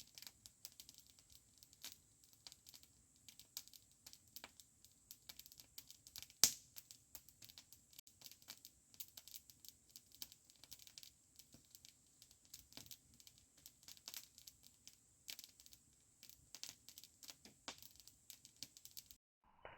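Campfire crackling: faint, irregular sharp snaps and pops, with one louder pop about six and a half seconds in. The sound cuts off abruptly just before the end.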